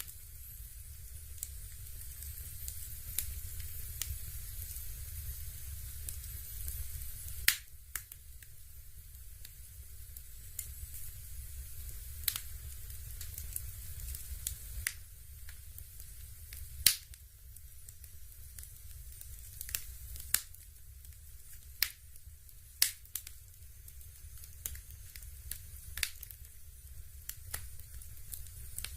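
Dimplex Opti-V Double electric fireplace running, with irregular sharp crackles and pops every second or two, like burning logs, over a steady low hum and a faint hiss.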